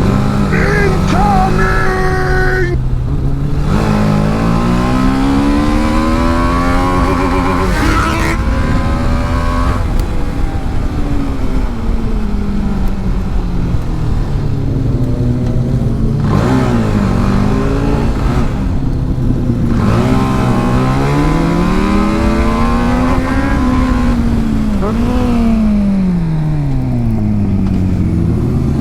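TVS Apache RR310's single-cylinder engine at race pace on a track. Its note climbs hard through the gears and falls away on the shifts and the braking into corners, over and over.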